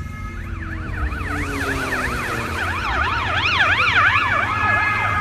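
Police car siren on its rapid up-and-down yelp, rising and falling a few times a second and settling into steady tones near the end, over a low vehicle rumble.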